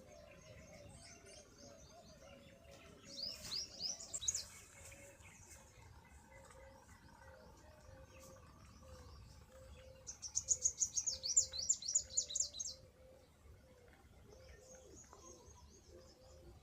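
Small birds chirping in rapid, high-pitched trills. There is a louder burst about three seconds in and a longer one of about three seconds starting ten seconds in, with a faint low note repeating underneath.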